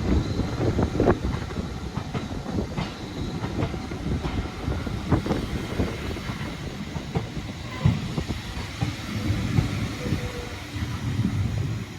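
A steam-hauled train, headed by a BR Standard Class 4MT 2-6-4T tank locomotive, rolling into a station: a low rumble with irregular clanks and knocks from the wheels crossing rail joints.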